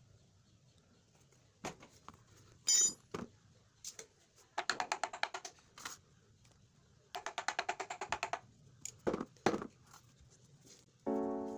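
Hand work on a motorcycle's brake drum as its dust is cleaned out: scattered knocks and clicks, and two runs of rapid, even strokes at about ten a second. Background music starts near the end.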